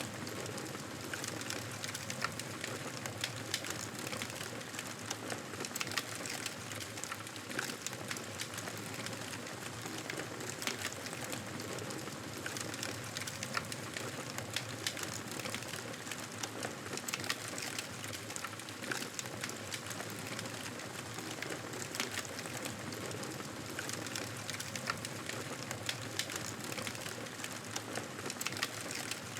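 Campfire crackling steadily, a constant hiss of burning wood dotted with frequent, irregular sharp pops and snaps.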